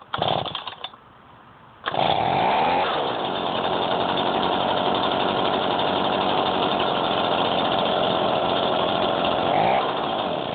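Stihl BG 55 leaf blower's two-stroke engine on a cold start with the throttle locked: a short burst of sound from a pull in the first second, then it catches just under two seconds in and runs steadily at high speed, stopping near the end.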